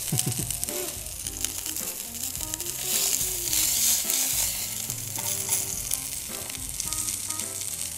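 Tuna searing in a very hot pan with olive oil, sizzling steadily. The sizzle swells for a second or two around the middle as the piece is turned onto a fresh side.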